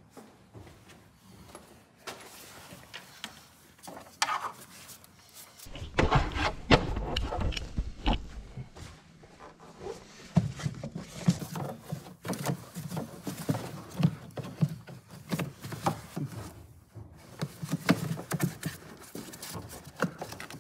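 Irregular clicks, knocks and scraping of parts and tools being handled during work in a car's engine bay, with a louder cluster of knocks a few seconds in and steady handling noise in the second half.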